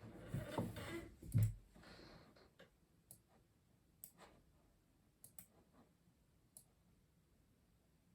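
A few separate keystrokes on a custom mechanical keyboard, spaced about a second apart, follow a louder rustle and a low thump in the first second and a half.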